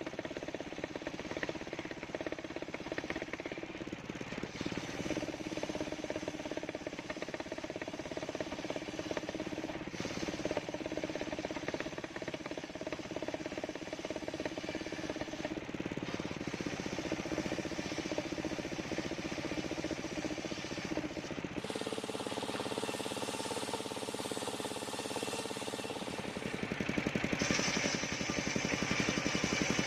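Engine-driven circular sawmill running steadily. Its tone changes about two-thirds of the way through, and it grows louder and brighter near the end.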